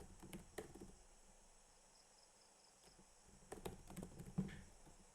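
Faint computer keyboard typing: a few scattered key clicks in the first second, then a short run of keystrokes about three and a half seconds in.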